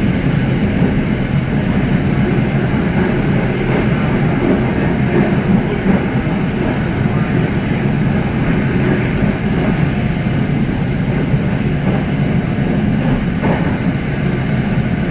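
Steady running noise inside a Bangkok SRT Red Line electric commuter train under way, an even rumble of wheels on rail and traction motors.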